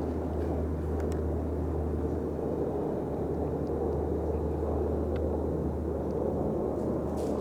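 A steady low rumble with a hiss above it, even throughout, with a few faint clicks.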